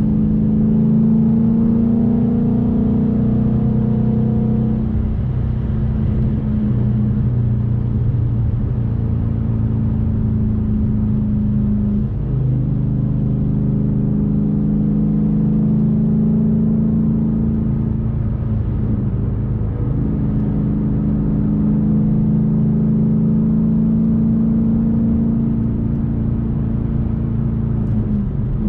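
Ford Mustang GT's V8 engine running steadily while driving, its pitch changing a few times as the revs shift, around five, twelve and twenty seconds in.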